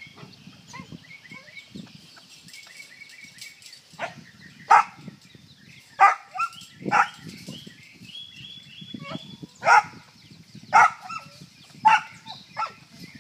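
A dog barking in short single barks, about eight of them at irregular intervals starting a few seconds in, over faint high chirping in the background.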